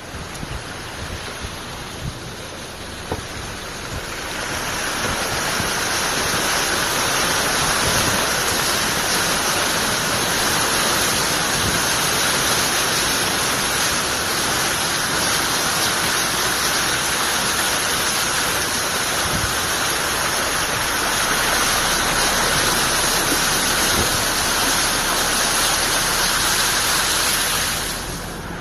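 Loud, steady rush of water, swelling about four seconds in and dropping away near the end.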